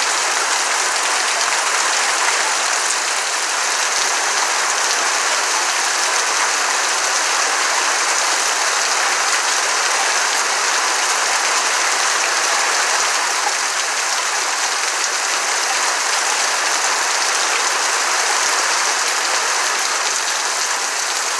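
Heavy rain pouring steadily on evergreen trees and grass, an even, unbroken downpour.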